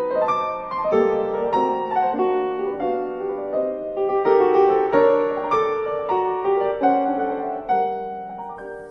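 Background piano music, a melody of single notes that fades out near the end.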